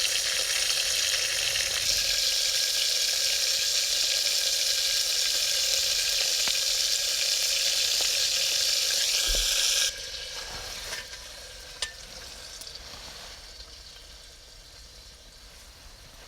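A loud, steady hiss that drops off suddenly about ten seconds in, leaving a much quieter hiss with a few small clicks that fades away.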